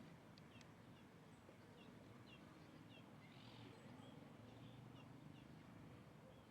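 Faint bird chirps: short, high, falling notes repeated about twice a second over a quiet background hiss.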